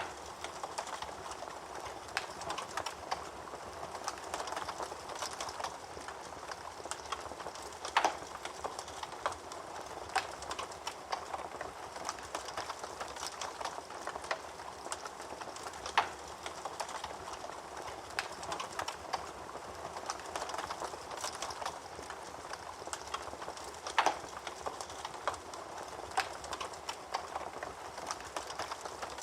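Wood fire burning in a fireplace, crackling steadily with many small snaps and a sharper, louder pop about every eight seconds.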